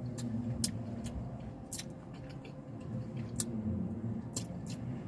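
Chewing and wet mouth clicks from someone tasting fried chicken with a sauce, scattered over a low steady hum.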